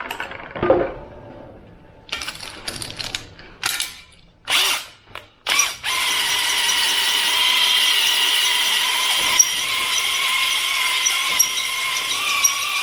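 Power drill spinning a cylinder hone in an engine block bore: a few short bursts first, then from about six seconds in a steady run with a steady pitched whine.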